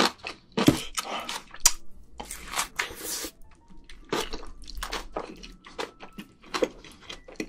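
Close-miked wet chewing and mouth smacking of someone eating, a run of short, irregular squishes and smacks.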